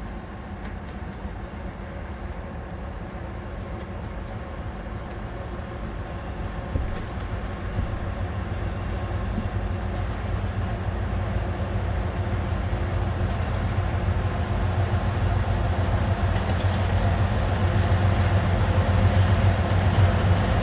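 Diesel train running, a steady low engine hum with several held tones, growing steadily louder.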